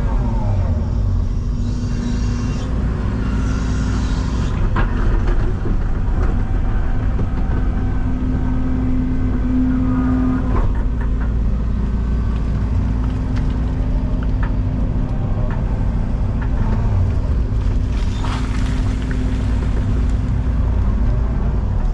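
Excavator's diesel engine running steadily while digging, with a few sharp knocks as the bucket works the ground. Short rushing noises come in about three seconds in and again near the end.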